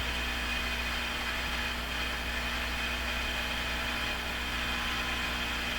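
Heat gun running steadily, a constant blowing whir with a low mains-like hum, as it warms up for shrinking heat-shrink tubing.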